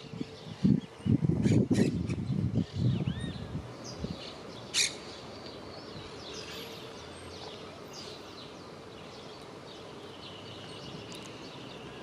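Birds chirping softly in scattered short calls, over low rumbling bursts during the first four seconds, with one sharp click about five seconds in.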